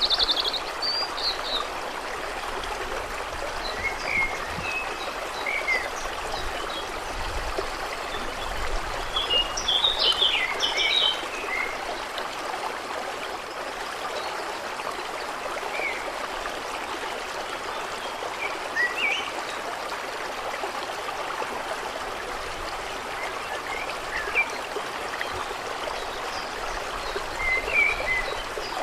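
Steady rush of running water with small birds chirping now and then, a busier flurry of chirps about ten seconds in.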